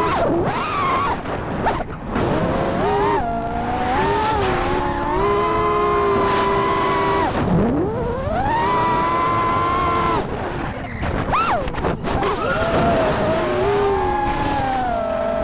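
FPV quadcopter motors whining, the pitch rising and falling with the throttle. It holds steady for stretches, then sweeps up sharply about seven and a half seconds in.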